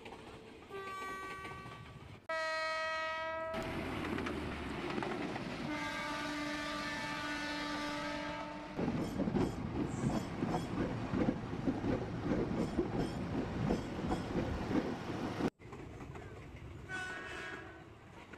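A train horn blows three times: a short blast, a louder short blast, then a long, lower one. Then comes a fast rhythmic clatter of train wheels over rail joints for about seven seconds, which cuts off suddenly. A short, fainter horn sounds near the end.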